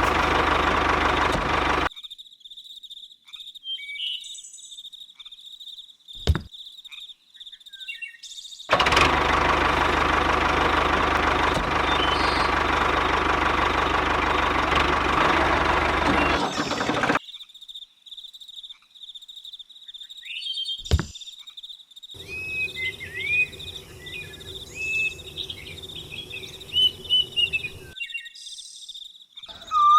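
A small engine runs steadily in two stretches, about two seconds at the start and again for about eight seconds in the middle, each cut off abruptly. Between them, birds chirp over a steady high insect drone.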